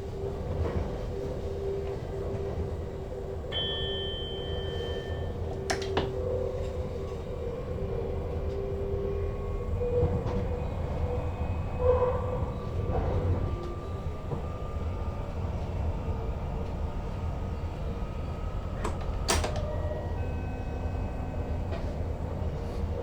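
Steady low hum of an NS Sprinter Lighttrain electric train heard from inside the driver's cab, with a brief high beep about four seconds in and sharp clicks near six and nineteen seconds.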